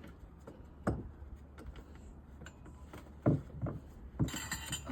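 Scattered knocks and clicks, with a stronger knock about a second in and two more past the three-second mark, then a short rattling clatter near the end. This is metal motorcycle exhaust parts and hand tools being handled as the exhaust is refitted.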